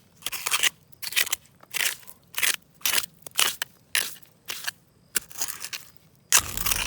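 Repeated crunching, about two short crunches a second. Background music comes in near the end.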